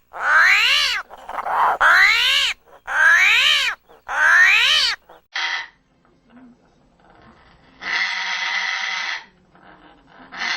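An animal calling: four loud, harsh calls of about a second each, each rising and then falling in pitch, followed after a short pause by a rough, hoarse rasping sound.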